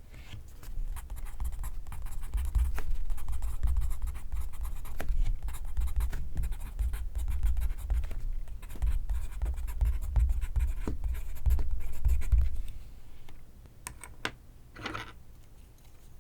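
Pencil writing on paper: a dense run of scratchy strokes with soft low knocks of the lead and hand against the paper, stopping about twelve seconds in. After it come a few light taps and one short rub.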